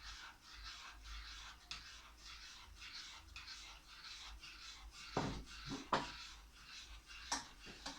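Spoon scraping around a cooking pot as thickening custard is stirred, in a steady run of soft strokes, with a few louder knocks against the pot in the second half.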